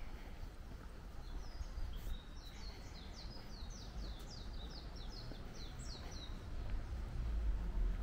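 A songbird singing a fast run of short, high, falling chirps, about four a second for some five seconds, over a low outdoor rumble that swells near the end.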